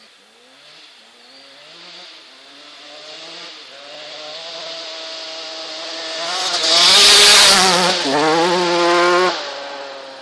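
Motocross bike's engine revving hard, climbing through the gears as it approaches, loudest as it passes close about seven to nine seconds in, then its sound falls away suddenly.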